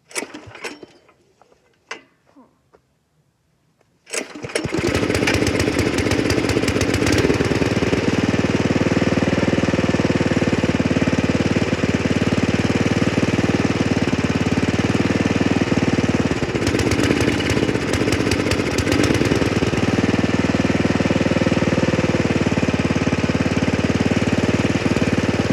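A few quiet knocks, then the tractor engine catches about four seconds in on a dose of engine starter fluid and runs steadily and loudly after that.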